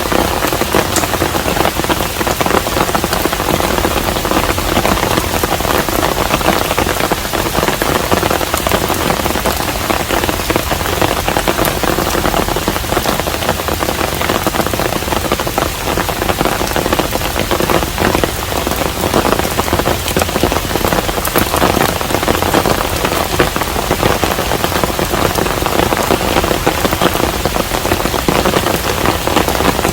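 Steady rain, a dense even patter with many small sharp drop impacts, holding constant without let-up.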